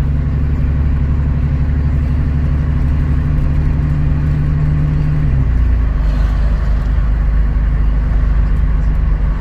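Chevy S10 pickup's 4.3-liter V6 running under way, heard from inside the cab as a steady engine drone with road noise. About five seconds in the engine note drops to a lower pitch.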